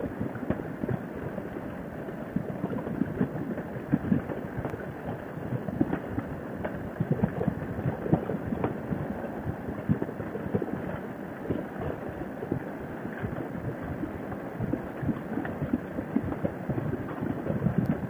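Wind buffeting and rushing over a helmet microphone at highway speed on a Harley-Davidson Sportster motorcycle, with the bike's V-twin engine running underneath. The buffeting is irregular and crackly.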